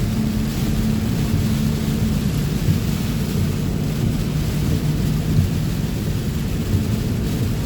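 Inside a pickup truck's cab in heavy rain: a steady low engine and road rumble with rain on the truck. The engine note drops to a lower pitch about two seconds in.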